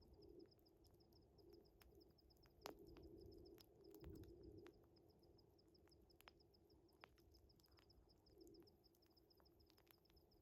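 Faint wood fire crackling with scattered sharp pops, the loudest a little under three seconds in, over crickets chirping in a steady, rapid high pulse.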